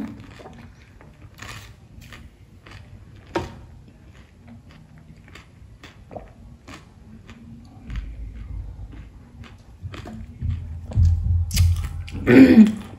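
Close-up mouth sounds of a woman chewing a mouthful of pani puri: soft wet clicks, with a sharper click about three and a half seconds in. A low rumble follows, and near the end there is a short, loud vocal sound.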